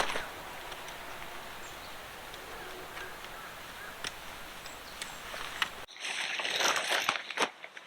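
Steady outdoor noise with a few faint clicks. It changes abruptly about six seconds in to louder crackling, rustling crunches.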